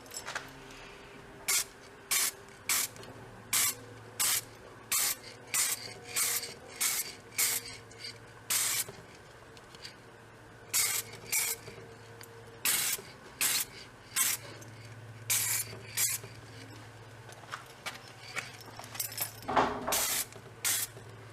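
Aerosol spray paint can sprayed in many short bursts of hiss, a fraction of a second each at uneven intervals, painting a bicycle lamp. One longer, louder burst comes near the end.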